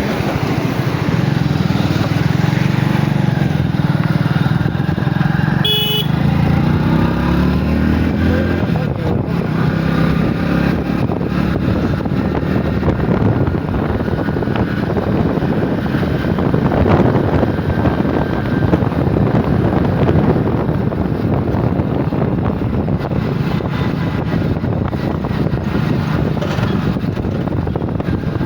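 A motor vehicle engine running under a dense wash of noise, its pitch sliding about six to eight seconds in as it changes speed. A brief sharp beep comes about six seconds in.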